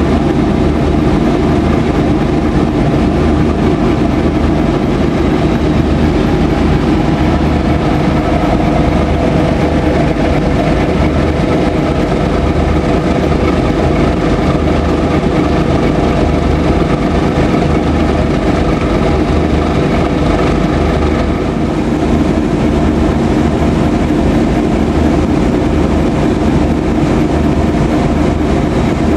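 A train running steadily at close range, loud and continuous.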